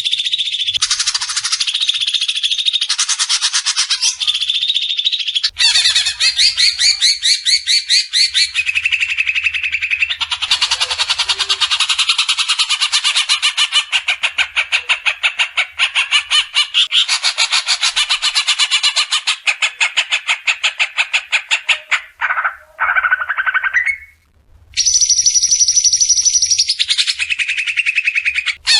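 Recorded songbird song made for tutoring cage birds: loud, fast repeated notes and rattling trills in changing phrases, with a couple of brief breaks near the end.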